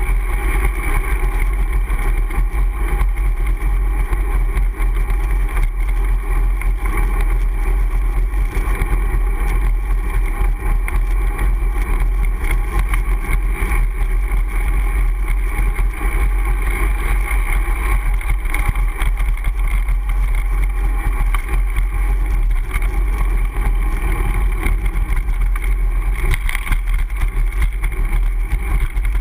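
Steady low rumble of riding noise, wind and road, picked up by a GoPro HD Hero's microphone on a moving bicycle.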